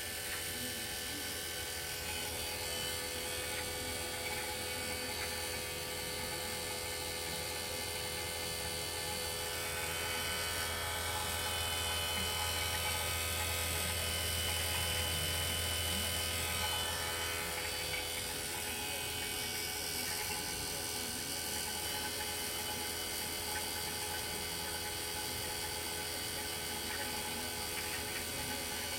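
Air conditioner unit running with a steady machine hum: a low drone under a set of higher steady tones, swelling a little around the middle.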